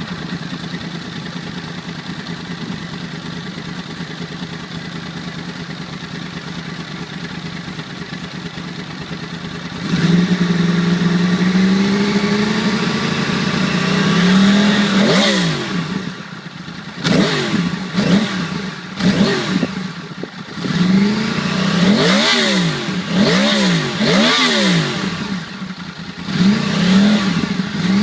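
2012 Yamaha R1's inline-four engine with its stock exhaust, idling steadily just after start-up. About ten seconds in it steps up to a higher steady speed, and from about halfway on it is revved in a series of quick throttle blips, each rising and falling in pitch.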